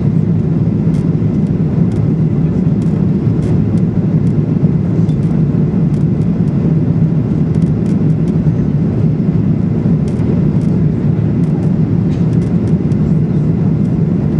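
Steady cabin drone of a Boeing 737-800 with its CFM56-7B engines running, heard from inside the passenger cabin.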